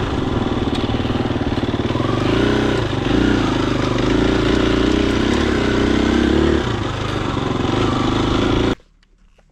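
Husqvarna FE250's single-cylinder four-stroke engine running while riding, its pitch rising and falling with the throttle. The sound cuts off abruptly near the end.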